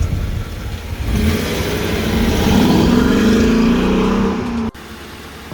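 2019 Dodge Durango R/T's 5.7-litre Hemi V8 revving up, its note building from about a second in, then cutting off abruptly near the end.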